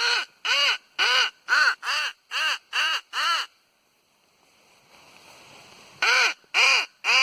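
Nordik crow call sounding a quick, even run of eight loud caws, each rising then falling in pitch. After a pause of about two and a half seconds, a second run of caws starts near the end.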